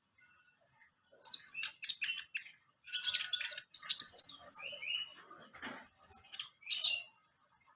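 Olive-backed sunbird singing: quick runs of sharp, high chirps and short trills in several bursts, starting about a second in, busiest in the middle.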